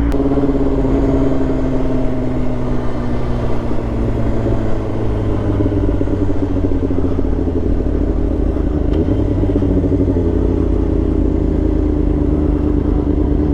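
Motorcycle engine running under way at a steady cruise, its note easing slightly lower over the first few seconds and then climbing gradually again, with heavy wind rush over the microphone.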